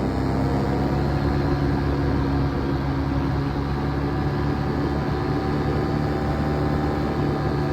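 Paramotor engine and propeller running steadily at a constant pitch in flight.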